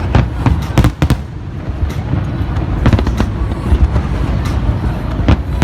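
Aerial fireworks bursting: a run of sharp, irregularly spaced bangs, about eight in a few seconds, over a steady low rumble.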